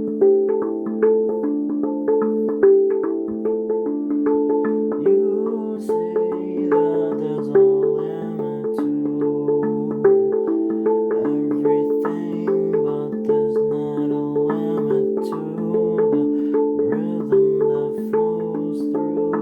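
Handpan played in a steady, flowing pattern of struck, ringing notes; from about six seconds a lower line of notes joins beneath.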